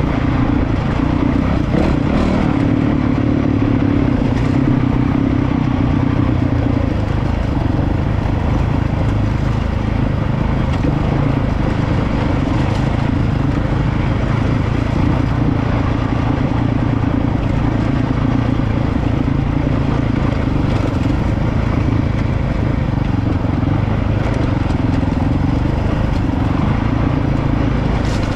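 Honda CRF450RL dual-sport motorcycle's single-cylinder four-stroke engine running steadily on a rocky downhill trail, its pitch wavering a little with the throttle, with faint ticks and clatter from the rough ground.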